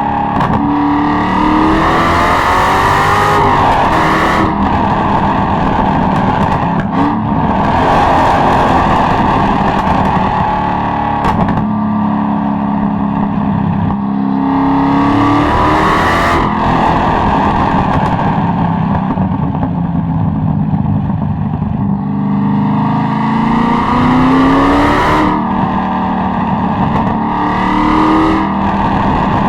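Corvette C6 Z06's LS7 7.0-litre pushrod V8 accelerating hard, its note climbing through the revs and dropping back repeatedly as the driver pulls and lifts off, with a few sharp cracks.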